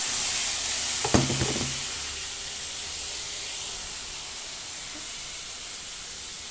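A steady sizzling hiss from food cooking on the stove, with one sharp knock about a second in. The hiss eases off slightly after that.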